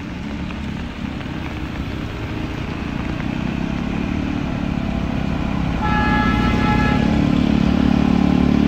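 Vehicle engines running steadily and gradually getting louder, with a horn honking for about a second around six seconds in.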